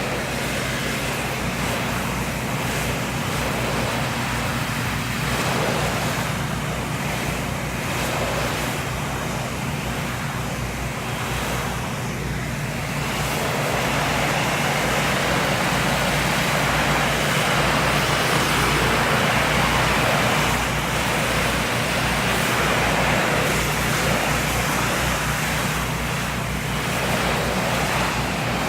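Pressure washer running steadily while a RYOBI surface cleaner blasts water onto concrete, a loud hissing rush that swells and fades as it is pushed back and forth. The rush gets louder about halfway through.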